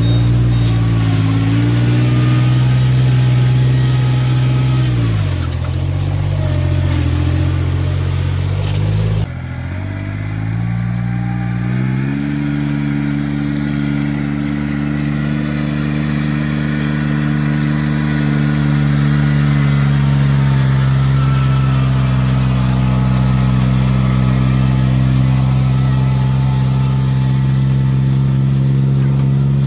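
Kubota rice transplanter's engine running under load. Its pitch sags about five seconds in, the sound changes abruptly near nine seconds, then it picks up speed around twelve seconds and holds a steady pitch.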